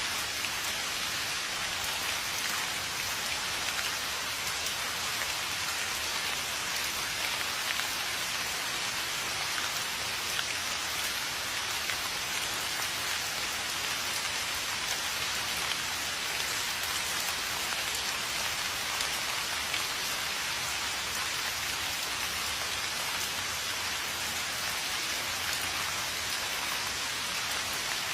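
Steady rain falling: an even, unbroken hiss with scattered drop ticks, holding the same level throughout.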